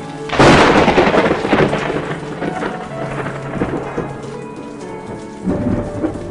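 A clap of thunder about half a second in that rumbles away over the next few seconds, over steady rain. A second, smaller rumble swells near the end.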